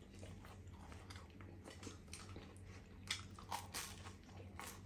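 Chewing and biting into a toasted grilled ham sandwich, with crisp crunches of the toasted bread, several sharper ones in the second half.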